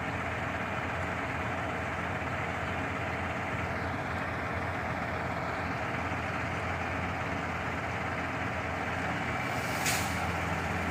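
Shingle delivery truck's engine running steadily at idle, with one brief sharp hiss near the end.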